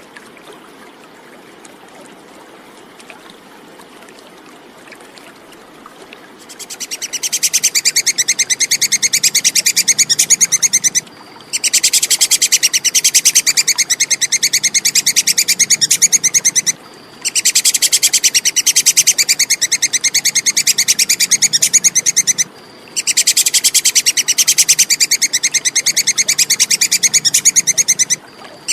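Squirrel (tupai kekes) chattering call: a very fast, shrill string of repeated notes in runs of about five seconds with short pauses between them, starting after several seconds of faint background hiss.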